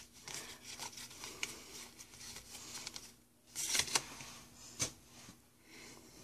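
Pokémon trading cards being handled and sorted by hand: faint sliding and rubbing with light clicks, a louder rustle about three and a half seconds in and a sharp tap a second later.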